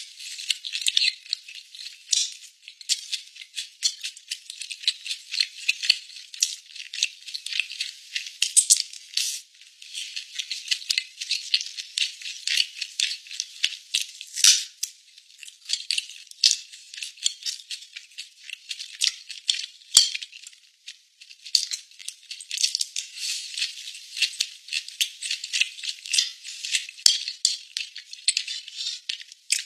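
Close-miked mouth sounds of chewing soft braised pork belly: a dense, constant crackle of small clicks and smacks, thin with no bass. A couple of sharper taps, likely from the chopsticks or plate, stand out later on.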